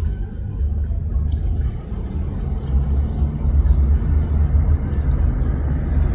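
Low rumble of a car heard from inside the cabin, engine and road noise, growing somewhat louder from about halfway through.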